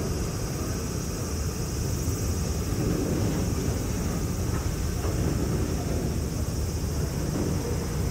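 An industrial electric freight train, a locomotive hauling flatcars loaded with steel, rolling along the track with a steady low rumble.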